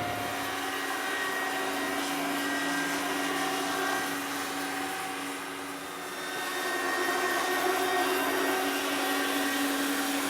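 1/4-scale radio-controlled MD500E model helicopter running: a steady whine with rotor noise, dipping slightly about six seconds in and then rising again.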